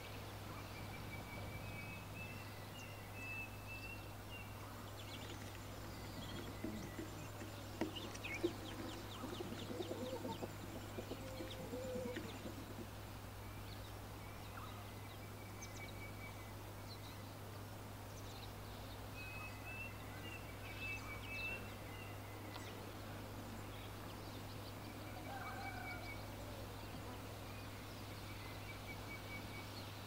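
Birds calling. A short phrase of repeated high notes recurs three times, and a cluster of lower calls with a few clicks comes about a third of the way through. A steady low hum runs underneath.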